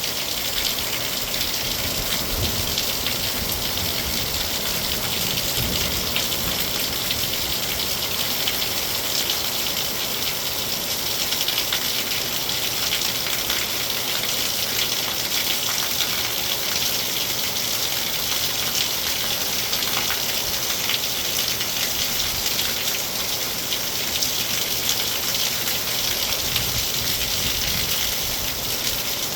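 Heavy rain falling steadily, a dense even hiss of drops with fine crackle and no let-up.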